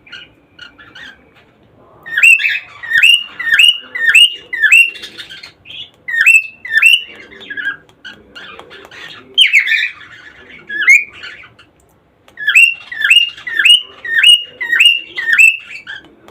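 Cockatiels calling: loud, short calls repeated in runs of several, each call sliding down in pitch, with a few brief pauses.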